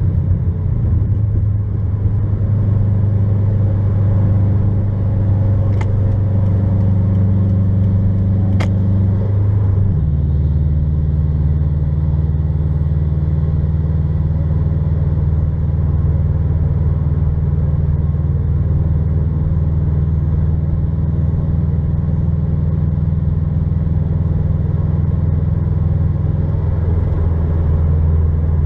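Subaru WRX STI's turbocharged 2.5-litre flat-four, fitted with a COBB Stage 3 intake and downpipe, cruising steadily with a low drone heard from inside the cabin. About ten seconds in, the drone drops in pitch as the car shifts up a gear, then holds steady at lower revs.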